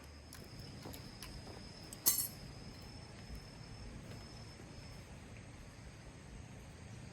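A single sharp clink about two seconds in, ringing briefly, over quiet outdoor background with a faint steady high tone.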